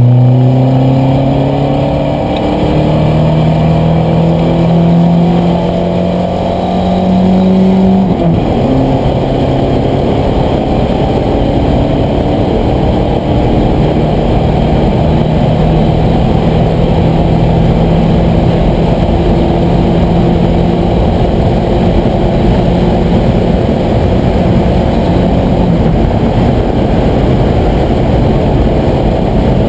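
Turbocharged Fox-body Ford Mustang race car's engine heard from inside the cockpit, climbing in pitch under full throttle, dropping sharply about eight seconds in, then holding steady at high revs.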